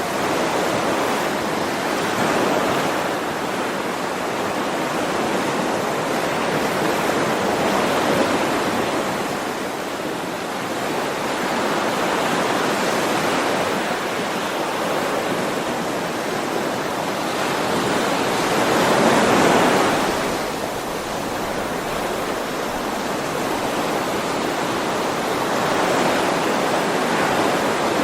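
Sea waves breaking and washing on a shore, a steady rush that swells and eases about every five to six seconds, with the biggest wave about two-thirds of the way through.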